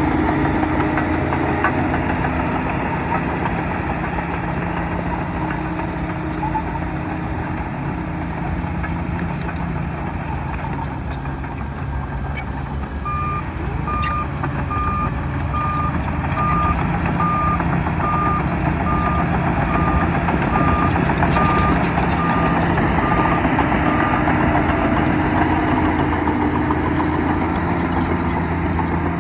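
Bulldozer's diesel engine running steadily under load, with its reversing alarm beeping evenly, a little over once a second, for about ten seconds in the middle as the machine backs up.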